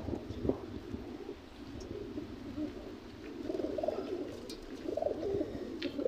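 Many racing pigeons cooing together in a loft, a continuous overlapping burble of calls that grows louder about halfway through.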